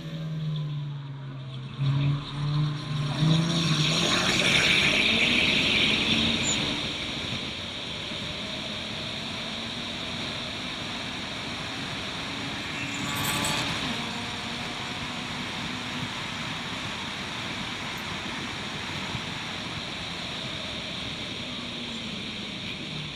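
Turbocharged Suzuki Swift race car engine running. It rises in pitch and grows louder a few seconds in, then settles to a steady, quieter drone.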